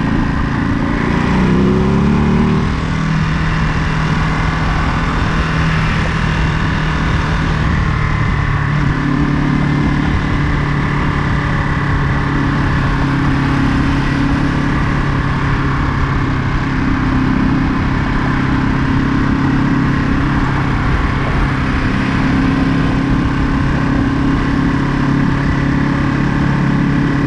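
Ducati Monster 937's L-twin engine under way: it revs up briefly about a second in, then holds a steady pitch at cruising speed, over a low rushing noise.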